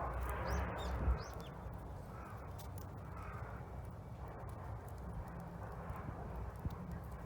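Wood crackling as it burns in a Solo Stove Bonfire fire pit, sharp clicks throughout, over a steady low rumble of boat engines from the harbour. A bird calls twice in the first second and a half.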